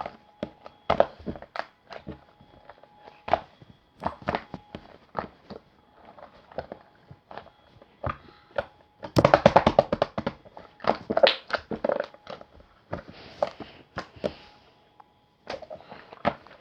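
Irregular taps, clicks and thuds of things being handled, with a denser run of clatter about nine seconds in.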